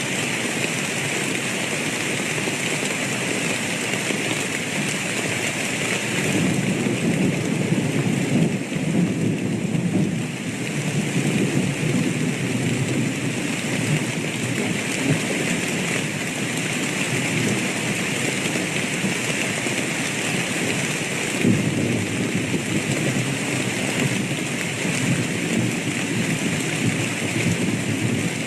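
Steady heavy rain falling, with thunder rumbling low beneath it, swelling about a third of the way through and again later.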